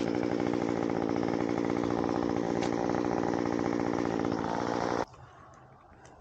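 Chainsaw engine running at a steady speed, then stopping suddenly about five seconds in.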